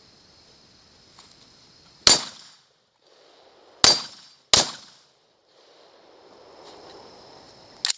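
Four gunshots, the first about two seconds in, two close together near the middle and the last near the end, each sharp and loud with a short tail.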